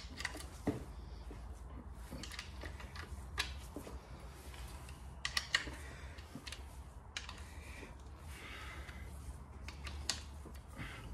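Irregular light metallic clicks and clinks of hand tools and parts being worked on a Holden grey motor as the crankshaft is taken out, with a few sharper clicks spread through, over a steady low hum.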